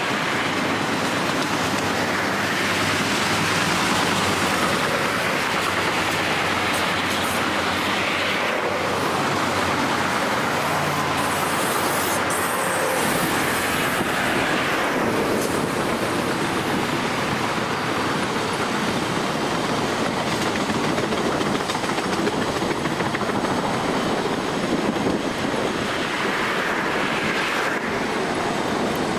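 Railroad cars rolling past steadily, with the clickety-clack of wheels over the rail joints.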